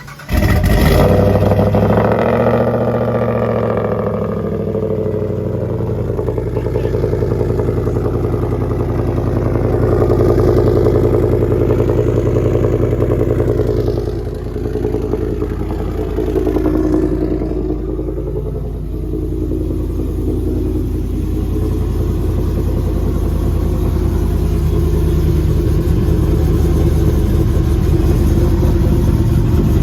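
Vehicle engine running through a loud aftermarket exhaust. It cuts in abruptly about half a second in, and its pitch settles down over the next few seconds. It then runs steadily, with a few mild rises and dips in revs.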